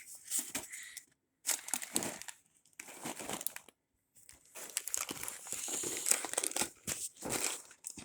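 Microwave popcorn bag crinkling and rustling as it is handled, in irregular bursts with two short breaks.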